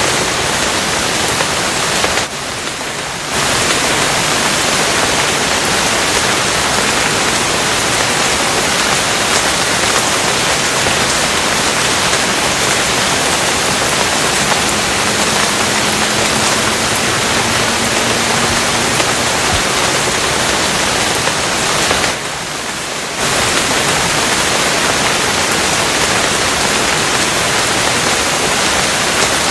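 Steady rain, a dense even hiss that dips briefly twice, about two seconds in and again about twenty-two seconds in.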